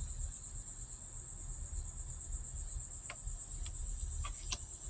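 Crickets chirping steadily in a continuous high-pitched pulsing chorus over a low steady rumble, with a few faint ticks.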